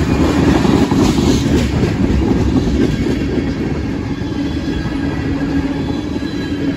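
Freight train tank cars rolling past close by: a loud, steady rumble and clatter of steel wheels on the rails.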